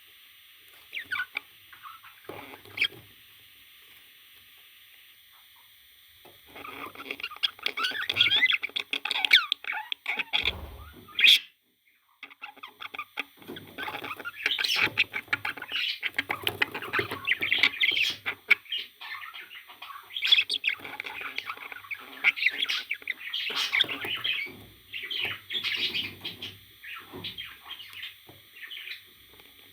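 Parrot chattering and chirping in quick, dense bursts, with a short break a little before halfway.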